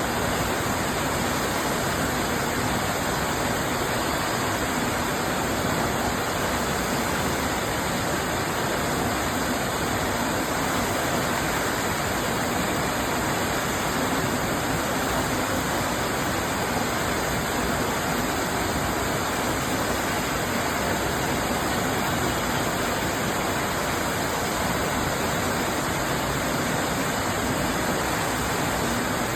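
Düden Waterfall's water falling, a steady, unbroken rush of noise that does not change.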